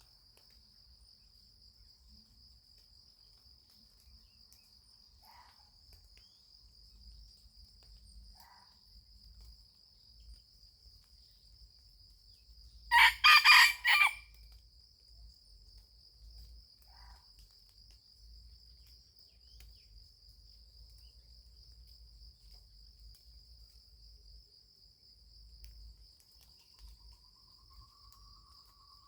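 A junglefowl rooster crows once, about 13 seconds in: one loud, short crow broken into a few pulses. It sounds over a steady, high insect trill, with a few faint short bird calls before and after.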